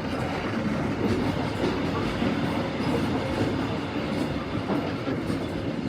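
Passenger train running along the track, a steady rumble with light clatter of wheels over the rail joints.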